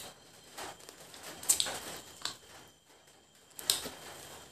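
Close-up chewing and lip-smacking of people eating fried chicken legs: a few short, sharp wet smacks, the loudest about a third of the way in and again near the end.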